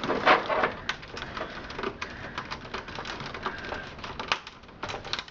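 Irregular clicks and rustling of plastic cables and cable ties being tugged and worked loose inside a computer case.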